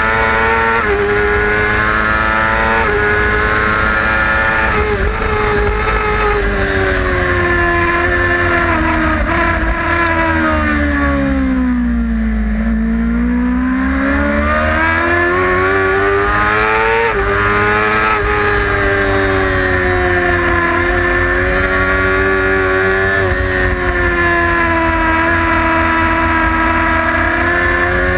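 Sport motorcycle engine running hard at high revs, with heavy wind rush over the microphone. It shifts up in quick steps in the first few seconds. Then the revs fall steadily for several seconds to a low point about halfway through, climb again and drop at a shift, and hold fairly steady near the end.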